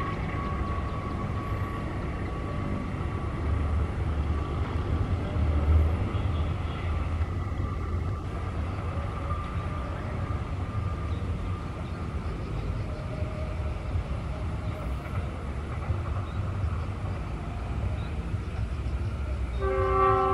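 Diesel locomotive-hauled passenger train running past at a distance, a steady low rumble of engine and wheels on the rails. Near the end the locomotive sounds its horn, a chord of several tones.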